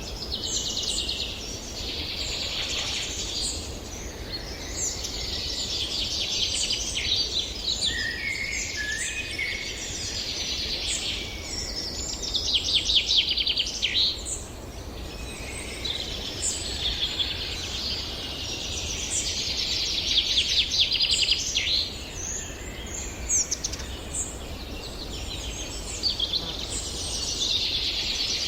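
Several songbirds singing at once: a dense chorus of overlapping rapid trills and chirps, over a steady low background hum.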